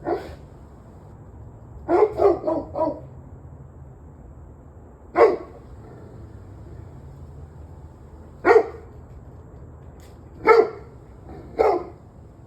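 A dog barking: about nine barks, with a quick run of four near the start and then single barks a few seconds apart. A steady low hum runs underneath.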